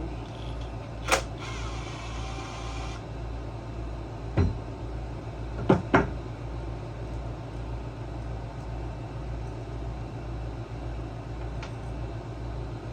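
Hand tools and small metal parts handled while screws come out of a bracket during a small-engine carburetor teardown. There is a sharp click about a second in, then a short noisy stretch of about a second and a half. A knock follows, then two quick clicks around six seconds in, all over a steady low hum.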